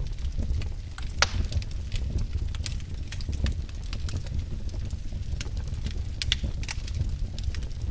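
Wood fire crackling in a fireplace: irregular sharp pops and snaps over a low steady rumble of the flames, with one louder pop about a second in.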